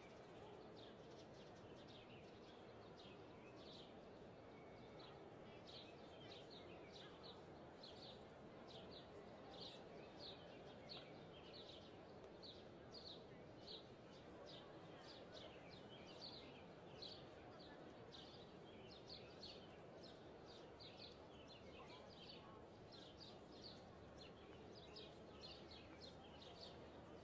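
Faint bird chirps: short high notes repeated about once or twice a second, over a soft, steady background hiss.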